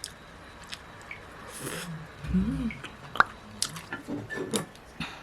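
A person eating bibim ramyeon noodles: wet chewing and slurping, with light clicks of utensils on the bowl. There is a short low hum a little past two seconds in.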